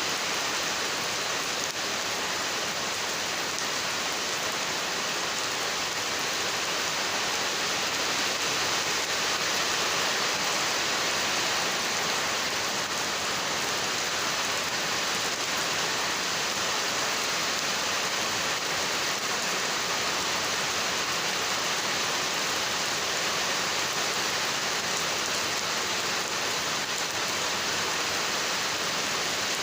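Heavy rain falling steadily and evenly, with no let-up.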